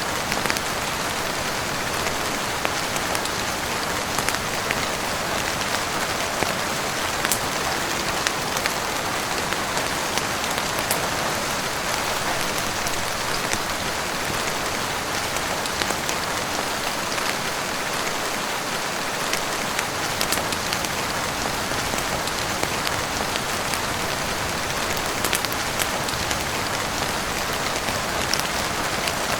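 Steady heavy rain falling on a roof and windows, an even hiss with scattered sharp ticks over it.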